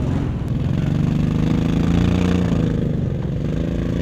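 Small off-road vehicle engine revving, its pitch climbing over the first two seconds, then easing off a little past halfway and settling at a lower, steady run.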